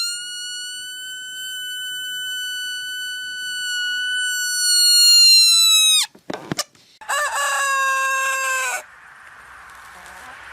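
Rooster crowing: one long held crow of about six seconds that drops sharply in pitch at the end, then a shorter, lower crow of about two seconds.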